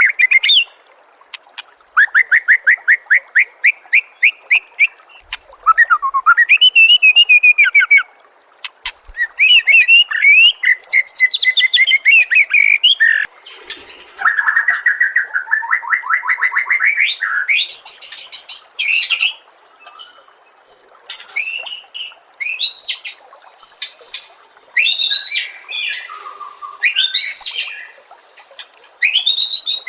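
White-rumped shama (murai batu) singing a long, varied song. Phrases of rapid repeated notes alternate with rising and falling whistles and sweeps, with brief pauses between phrases.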